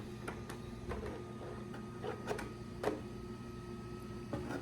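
Light scattered clicks and taps from handling a switched-on RC car, over a steady electrical hum; a faint high steady tone comes in about a second in.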